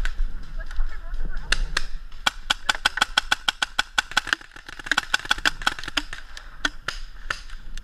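Paintball markers firing, a quick irregular run of sharp pops that starts about a second and a half in and comes thickest in two flurries.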